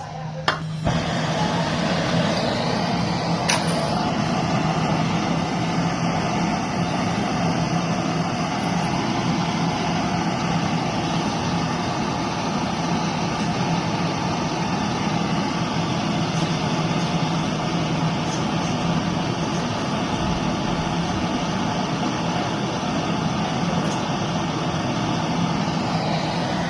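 A machine running steadily with a low hum under a strong, even hiss, switching on abruptly under a second in.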